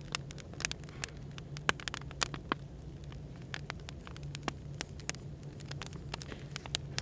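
Crackling wood fire with irregular sharp pops and snaps, over a steady low hum of café background noise.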